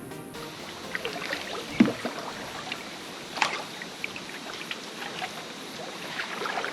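Canoe paddling on a still river: paddle strokes splashing and water trickling off the blade, with a few sharper clicks along the way.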